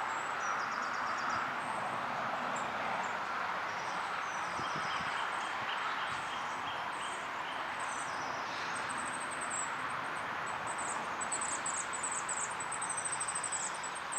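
Outdoor ambience: small birds singing high, chirping phrases over a steady background hiss, with a fast trilling song near the end.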